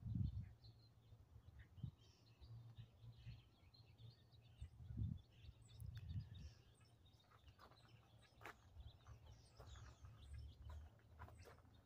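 Faint outdoor quiet with scattered small bird chirps, over a low background hum with a few soft low thumps.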